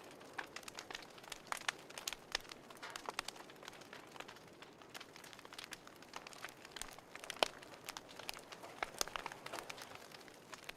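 Fireplace wood fire crackling: irregular sharp pops and snaps over a soft hiss.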